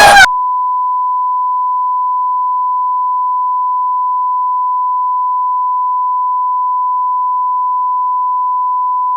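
A single long beep tone at one steady pitch, held without a break. It cuts in abruptly over a voice less than half a second in.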